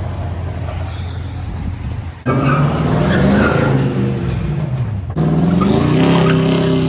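Dirt bike engine revving up and down in pitch, loud. It comes in abruptly after a steady low drone, and a second burst of revving starts after a cut near the end.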